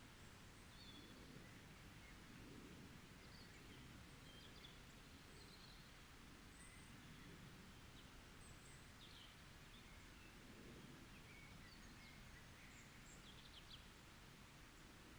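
Faint forest ambience: scattered short bird chirps and calls over a low, steady background rumble.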